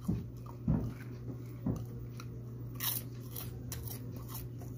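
Close-up chewing and crunching of sugar-coated peanuts, with a few short crunches about three seconds in. A steady low hum runs underneath.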